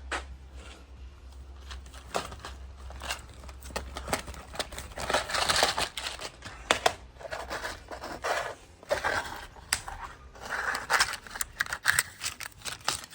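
Rummaging for a fuse puller: a quick, irregular run of clicks, scrapes and rustles as small objects are handled and moved.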